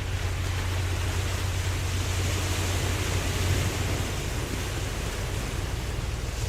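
Ocean waves washing steadily, with wind and a constant low rumble underneath, the hiss swelling and easing slightly.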